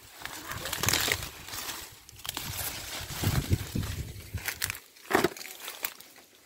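Dry maize leaves and stalks rustling and crunching as they are handled and pushed through, in irregular bursts with a sharper crack about five seconds in.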